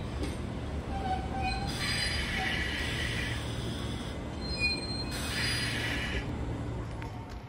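A train running on the rails with a steady rumble and two squeals of the wheels, each lasting about a second, the first about two seconds in and the second about five seconds in.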